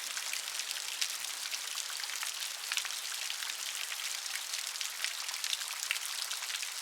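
Steady rain falling, a continuous hiss dotted with many distinct drops striking a surface.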